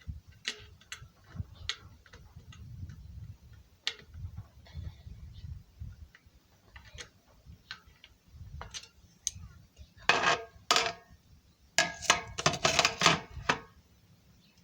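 Metal clicking and clattering from hands-on work on a bicycle: scattered sharp ticks, then two louder bursts of rattling and scraping near the end.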